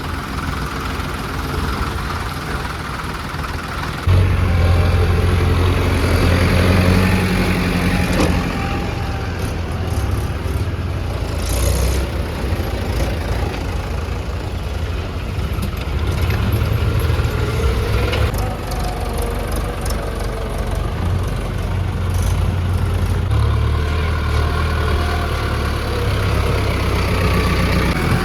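Tractor diesel engine running steadily, getting clearly louder about four seconds in.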